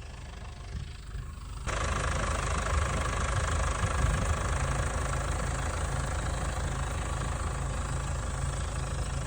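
Tractor engine running steadily with a low, pulsing rumble, which turns abruptly louder about two seconds in and stays there.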